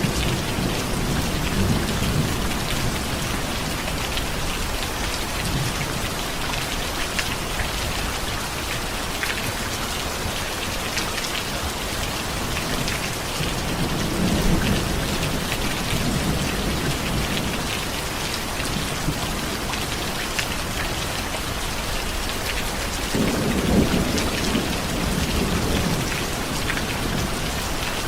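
Steady rain with drops pattering close by. Low rolls of thunder rumble once around the middle and again near the end, and an earlier roll fades out in the first couple of seconds.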